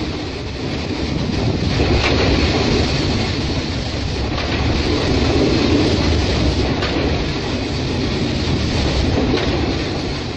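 Freight train of loaded coal wagons rolling past: a steady rumble with a few faint clacks of the wheels over the rails.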